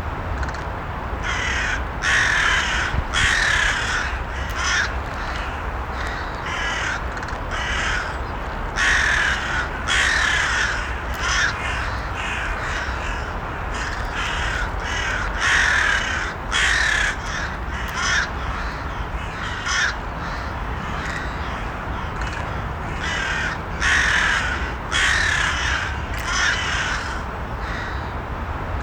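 Crows cawing repeatedly, harsh calls coming in irregular clusters of a few at a time, over a steady low background rumble.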